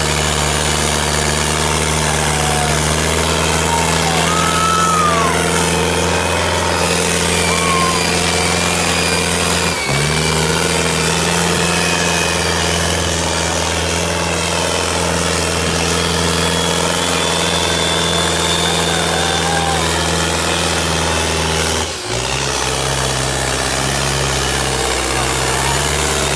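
Sonalika tractor's diesel engine running steadily, with two brief breaks about ten and twenty-two seconds in, after which its pitch settles at a slightly different level.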